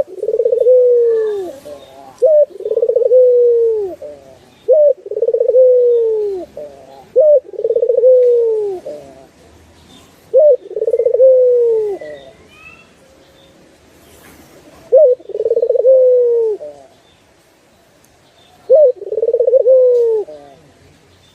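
A puter turtle dove cooing in a repeated phrase: a short clipped note, then a long falling coo. About eight phrases come in quick succession, with two longer pauses in the second half.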